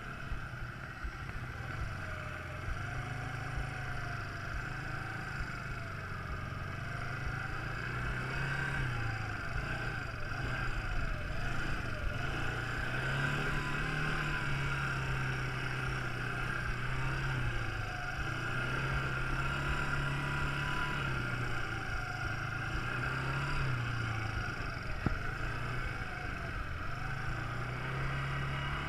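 Quad bike engine running, its pitch rising and falling several times as the throttle is opened and eased off.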